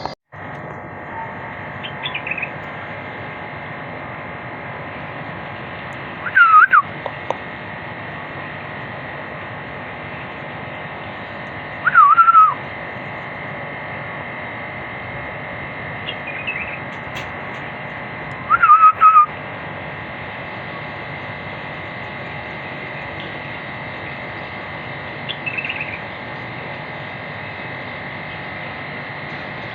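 Caged bulbul calling: three loud whistled calls about six seconds apart, each dipping in pitch, with a few fainter short calls between. A steady electrical hum runs underneath.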